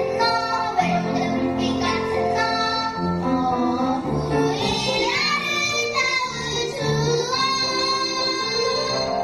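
A child's voice singing a Korean children's song over instrumental accompaniment, with long held notes that slide in pitch.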